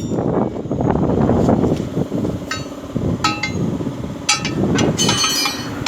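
Metal striking metal in a truck tyre change: about five sharp clinks with a short ring, from halfway through, over steady low background noise.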